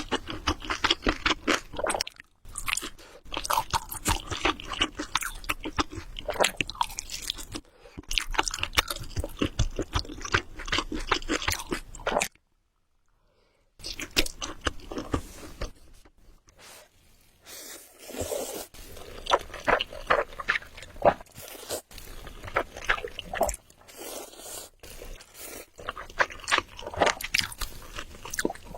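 Close-miked ASMR eating: chewing of spicy carbonara Buldak noodles, with rapid crackly mouth sounds. The sound breaks off into silence for about a second and a half near the middle, then resumes more softly.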